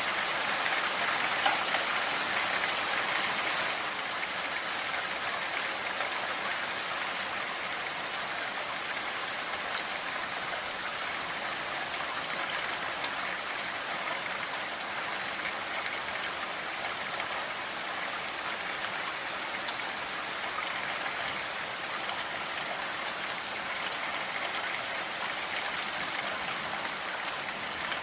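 Steady rain falling, a dense hiss of many drops pattering on a surface.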